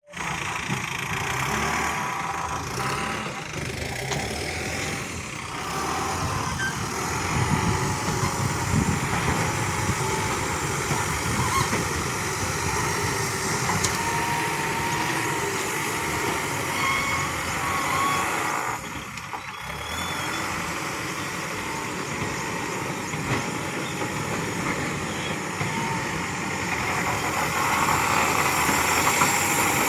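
Backhoe loader's diesel engine running as the machine works the ground, a steady mechanical din that drops briefly about two-thirds of the way through.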